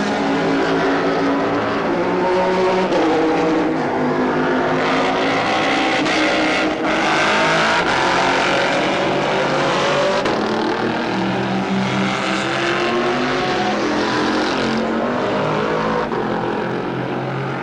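Several GT racing cars' engines running hard on track, their pitches overlapping and rising and falling as they pass and shift gears.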